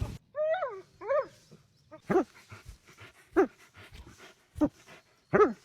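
A dog letting out short, high-pitched whines and yelps, two near the start and then about four sharper ones roughly a second apart, while playing tug.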